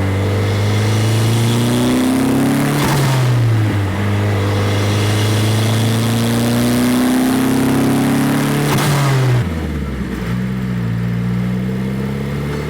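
Nissan 200SX's turbocharged SR20DET four-cylinder pulling hard and climbing in revs. Twice, about three seconds in and again about nine seconds in, a short hissing rush of turbo flutter and blow-off comes as the throttle closes and the revs drop. After the second one the engine settles at a steadier, lower note.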